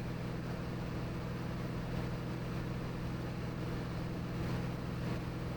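Steady drone of the Cirrus SR22T's turbocharged six-cylinder engine and propeller in cruise, heard inside the cabin as an even hum with a few constant low tones.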